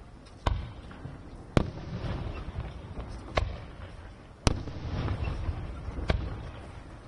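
Aerial firework shells bursting: five sharp bangs at uneven intervals over about six seconds, each trailing off in a rolling echo.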